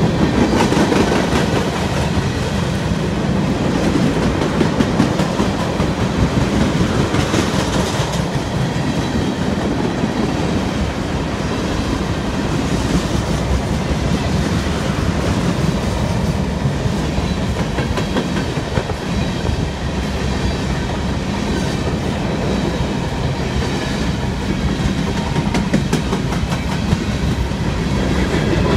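CSX freight train Q410 passing at speed, a steady loud rumble of steel wheels on the rails as tank cars, boxcars and hopper cars roll by.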